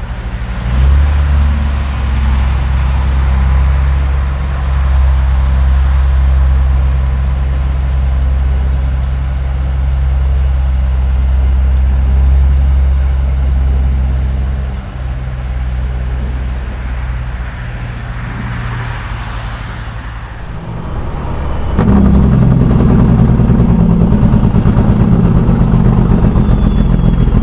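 A semi truck's diesel engine running steadily. It drops back a little about halfway through and gets louder again near the end, with a brief hiss shortly before that.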